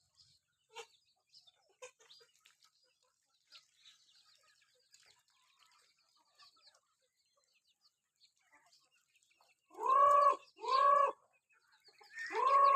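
Village chickens calling: faint scattered chirps at first, then three loud squawking clucks in quick succession near the end.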